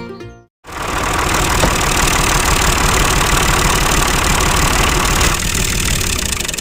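Small motor-driven machine running steadily with a dense, fast rattle and hiss, starting abruptly about half a second in.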